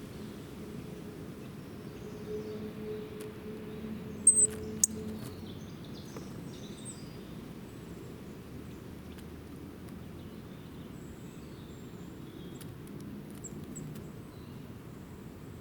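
Outdoor ambience with faint, scattered small-bird chirps over a steady low background noise. A quick cluster of three sharp clicks a little over four seconds in is the loudest sound.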